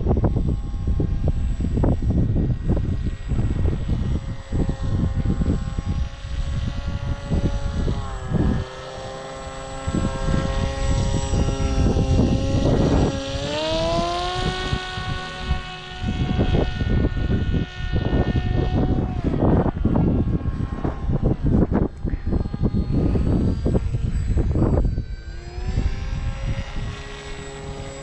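Electric motor and propeller of a foam FPV combat wing whining in flight, its pitch rising and falling with throttle and climbing sharply about halfway through. Wind buffets the microphone with heavy low rumbling gusts.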